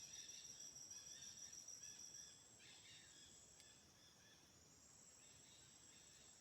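Faint chorus of rainforest insects: steady high-pitched buzzing with short repeated chirps, the loudest buzz cutting off a little over two seconds in while a softer high buzz carries on.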